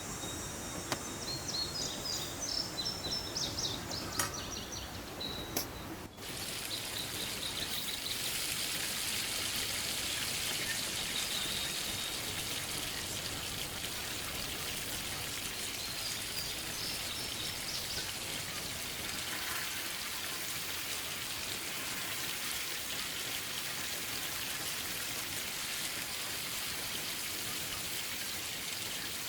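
Birds chirping for about the first six seconds, then, after an abrupt cut, the steady hiss of a mountain stream's flowing water, with a few faint bird calls over it.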